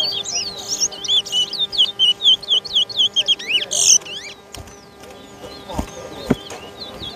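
Caged towa towa (twa-twa) seed finch singing a rapid twittering song of quick up-and-down whistled notes for about four seconds, fading to scattered notes, during a song-count race. Two short knocks come near the end.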